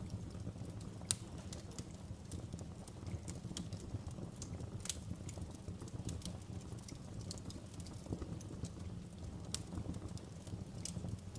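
Wood fire burning outdoors: a steady low rumble of flames with irregular sharp pops and crackles from the burning wood, one louder snap about a second in.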